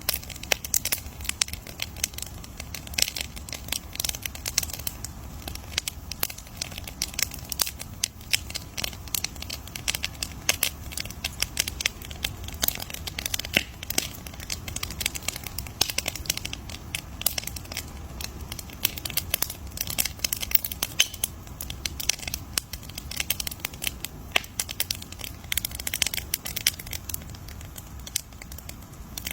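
Campfire crackling: dense, irregular pops and snaps of burning wood over a low steady rumble of the flames.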